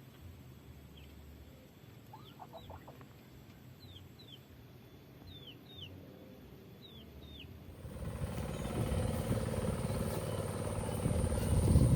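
A wild bird calling short, high, falling whistle notes, mostly in pairs, repeated about every second and a half, with a few lower falling notes from another call about two seconds in. From about eight seconds a louder steady rushing noise comes in and grows, covering the calls.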